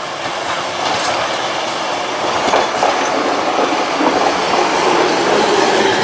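Eizan Electric Railway train running along the track, the rolling noise getting gradually louder, with a few clicks from the rails.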